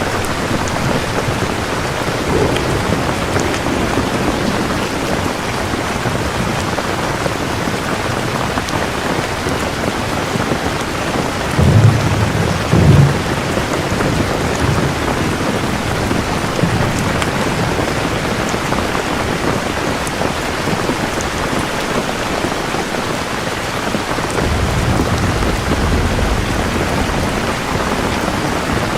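Steady heavy rain with thunder: a loud low clap in two peaks about twelve seconds in, and a softer low rumble a few seconds before the end.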